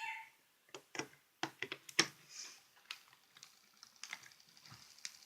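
Irregular clicks and knocks of a plug and wires being handled and connected, as the homemade fan is hooked up to power. Near the end, the fan's small DC motor starts, with a faint, fast, even whir.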